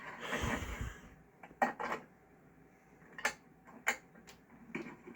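A car's rear-seat interior trim and latches being handled: a rustling knock about the first second, then several sharp clicks and taps spread over the next few seconds.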